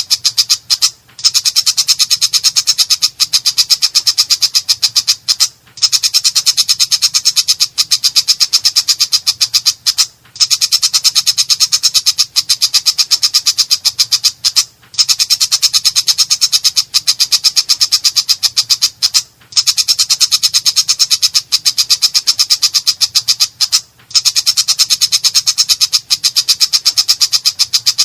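Long-tailed shrike (cendet) giving a harsh, rapid chattering song of fast repeated notes, in bouts of about four and a half seconds, each broken by a short pause, repeating at even intervals.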